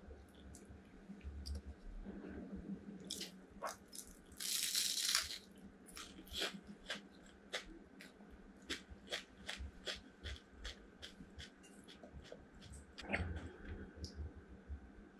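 Eating a deep-fried Vietnamese spring roll (chả giò): a loud crunchy bite about four seconds in, then a long run of small crisp crunches as it is chewed.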